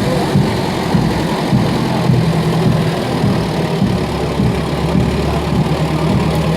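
A motor vehicle's engine running at idle, a steady low hum.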